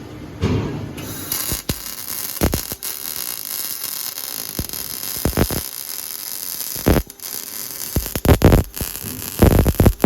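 MIG welding arc crackling and hissing steadily from about a second in, with frequent sharp pops and several louder bursts, most of them near the end.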